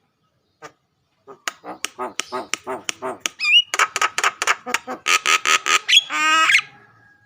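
Jalak (starling) calling: a fast run of harsh squawks, about four or five a second, with a short rising whistle partway through and a quick rattling trill near the end.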